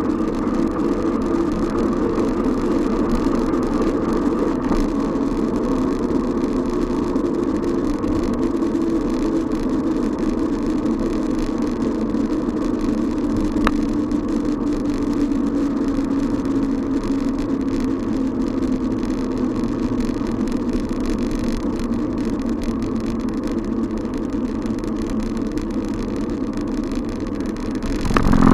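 Steady riding noise from a moving bicycle: tyre hum on the road and wind, with a hum that sinks slowly in pitch as the bike eases off. A single sharp click comes about halfway through.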